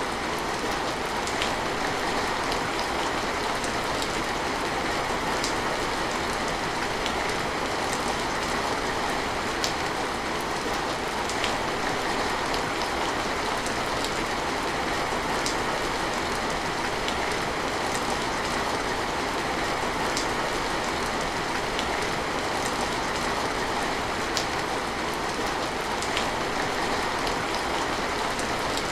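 Steady rain falling in an even hiss, with scattered sharper ticks of individual drops hitting a surface.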